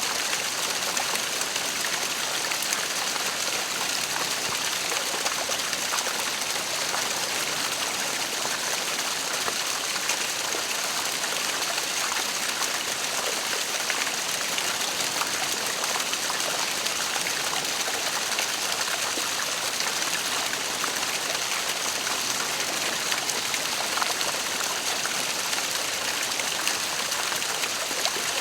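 Waterfall: a steady, hissing rush of falling water, even and unbroken.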